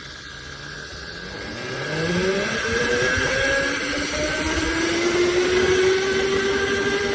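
Electric dirt bike's motor whining and rising in pitch as the bike accelerates over the first few seconds, then holding a near-steady whine. Wind and tyre noise run underneath.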